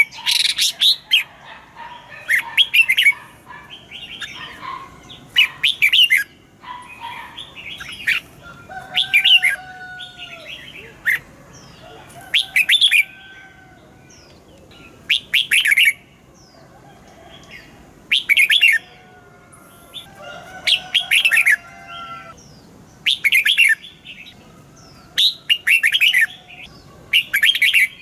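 Red-whiskered bulbul singing: short, loud, chirpy phrases repeated about every two to three seconds, with fainter whistled calls in between.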